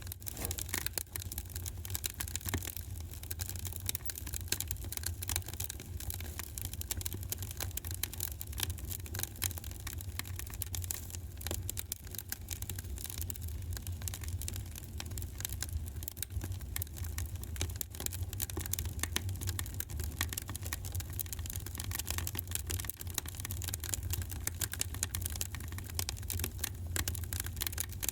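Wood fire in a fireplace crackling, with dense irregular pops and snaps over a steady low rumble.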